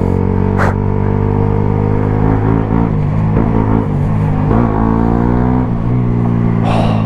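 Suzuki GSX-S125's single-cylinder engine running through a Mivv GP Pro aftermarket exhaust while riding at a fairly steady engine speed, with small throttle changes in the middle.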